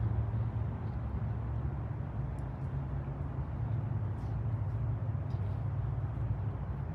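Steady low outdoor rumble, with a few faint short high chirps over it.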